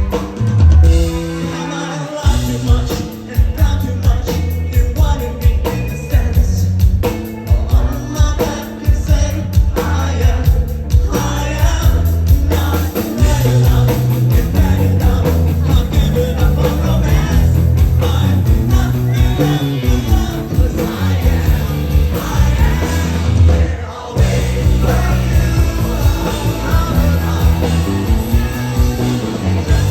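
Rock band playing live: a singer's voice over loud guitars, bass and drums, with a short drop in the music about three quarters of the way through.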